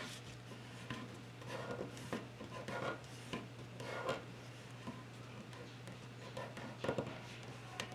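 A sheet of paper being folded and creased by hand: soft, intermittent rustles and rubs, with a few louder ones about two, four and seven seconds in.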